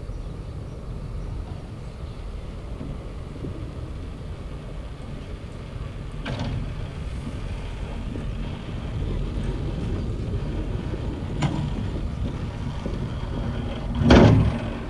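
Cable car ride: a steady low rumble with wind on the microphone, broken by a short knock about six seconds in, another about eleven seconds in, and a louder clunk near the end.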